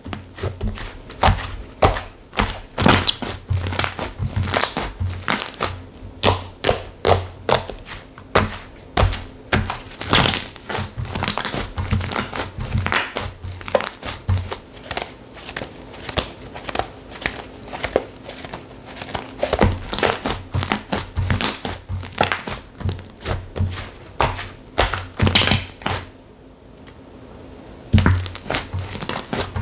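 Hands squeezing and poking slime, making a dense run of crackling, popping clicks with a short pause near the end.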